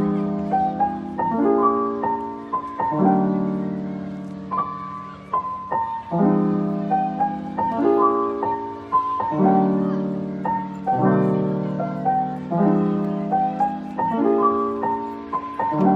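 Soft background piano music: slow chords restruck about every second and a half, each fading away, with a simple melody above.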